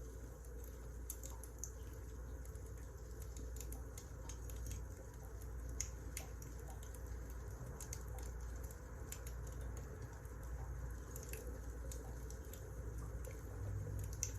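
Wood fire crackling, with irregular small pops and snaps over a low steady rumble.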